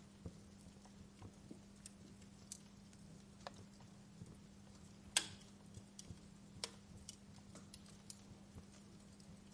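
Wood fire in a fireplace crackling: scattered small pops and snaps at irregular intervals, with one louder pop about five seconds in, over a faint steady low hum.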